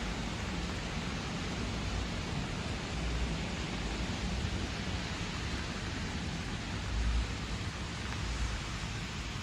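Steady rain falling, an even hiss, with a low rumble that briefly swells about seven seconds in.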